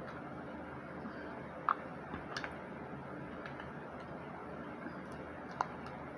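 A few sharp clicks of mussel shells being handled during eating: a loud one just under two seconds in, a small cluster about half a second later, and another near the end, over a steady low hum.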